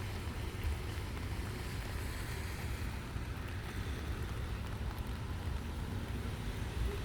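Wind buffeting the microphone: a steady, uneven low rumble with a fainter hiss above it.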